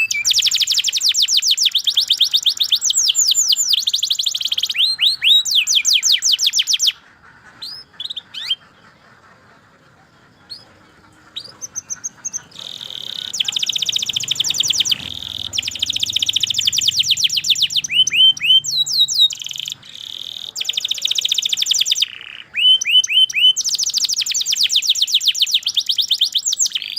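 Domestic canary singing long, fast trills of rapidly repeated falling notes. About seven seconds in the trills break off for a few seconds of scattered single chirps, then start again and run on in long phrases.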